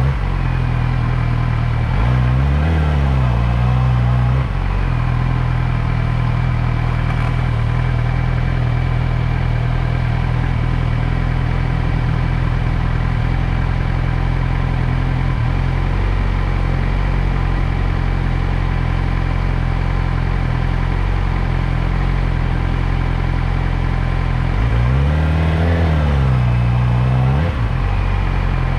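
Motorcycle engine running steadily, its revs rising and falling briefly twice: once about two seconds in and again near the end.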